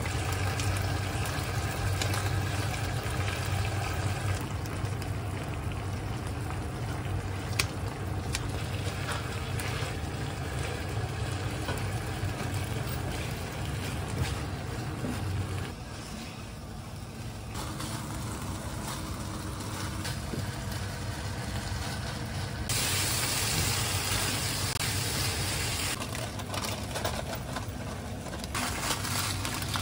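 Rice, kimchi and leftover spicy chicken sauce sizzling in a frying pan as they are stirred with a spoon, over a steady low hum. The hiss turns brighter and louder for a few seconds past the two-thirds mark.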